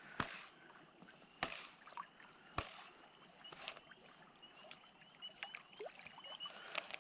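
Sharp knocks of gear against a canoe hull, three in the first three seconds, over faint water noise. A run of short high chirps starts about halfway in.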